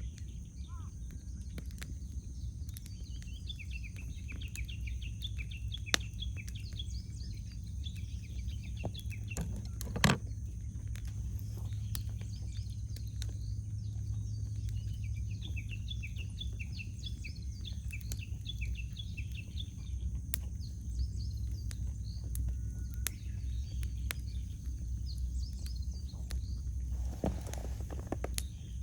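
Wood campfire crackling with scattered small pops, two sharper, louder pops about six and ten seconds in, while small birds chirp and twitter on and off.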